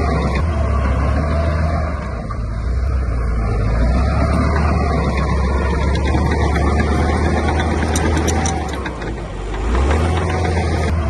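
Heavy diesel construction machinery running steadily at work, its engine sound easing briefly twice, with a few light clicks about eight seconds in.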